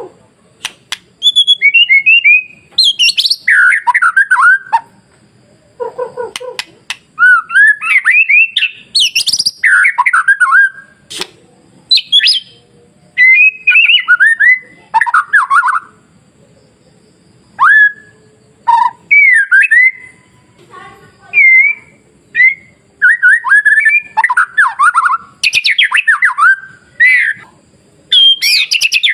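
White-rumped shama (murai batu) singing: loud phrases of sweeping, gliding whistles and warbles, each a second or two long, with short pauses between them.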